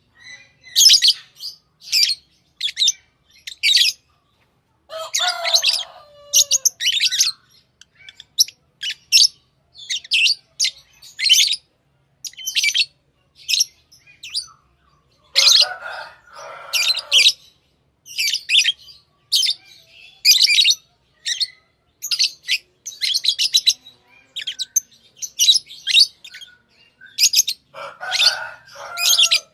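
Pet lovebirds chirping: a continuous run of short, high chirps, broken three times by lower chattering calls that each last a second or two.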